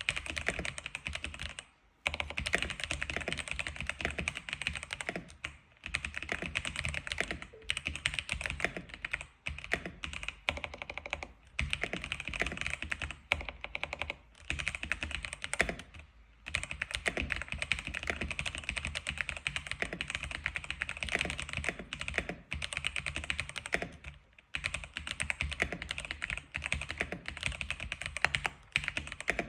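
X87 keyboard being typed on quickly and steadily: a dense run of key clicks, broken by a few brief pauses of under a second.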